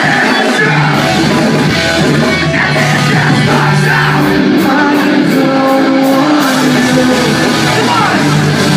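Live rock band playing loud music with a singer, recorded from the audience.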